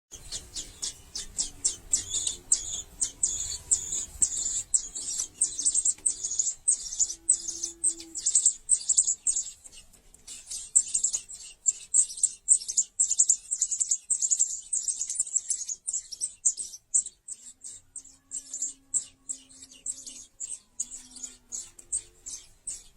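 Young birds in a nest begging for food: a rapid, unbroken string of short, high-pitched cheeps, several a second.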